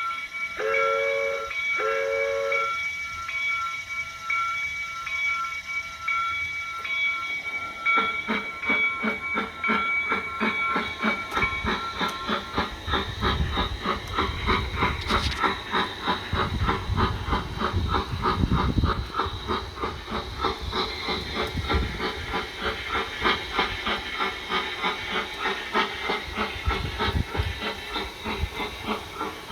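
Model Bachmann steam locomotive's sound system setting off: two short whistle toots, then steam chuffs that start about eight seconds in and quicken as the train pulls away.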